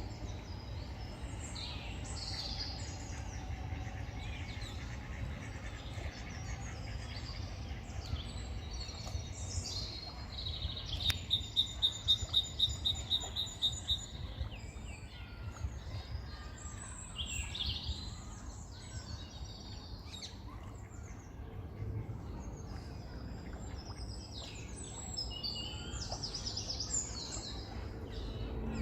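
Several small birds chirping and calling, with one bird repeating a quick high note about eight times a second for a few seconds, about eleven seconds in, the loudest part. A steady low rumble of background noise runs underneath.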